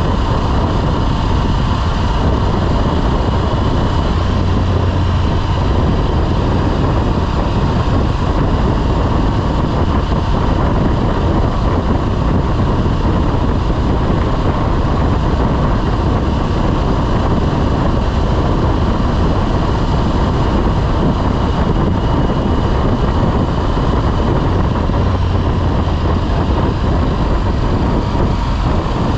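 Motorcycle riding at a steady speed: its engine and the wind rush of travel make a constant, even noise.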